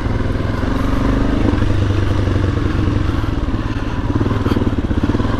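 Suzuki DR-Z400S single-cylinder four-stroke engine running steadily as the bike is ridden along a dirt trail, with a brief click about four and a half seconds in.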